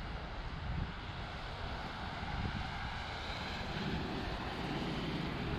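Wind blowing over the microphone: a steady rush with uneven low buffeting that gets a little stronger over the last couple of seconds.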